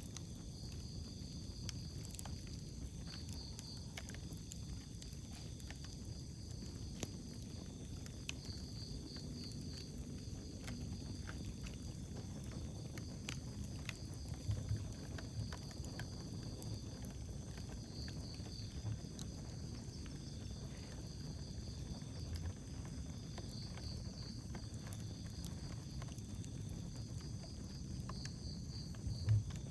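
Wood fire burning with a steady low rumble and scattered sharp crackles and pops, joined every few seconds by a high trilling chirp.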